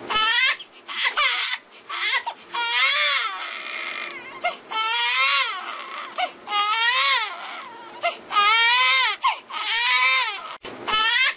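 An infant crying in repeated high wails, each about a second long and wavering in pitch, with short breaths between.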